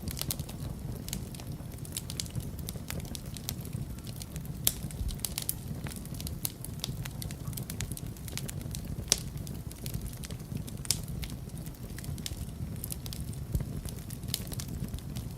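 Wood fire crackling steadily over a low rumble of flames, with frequent small snaps and a few louder pops.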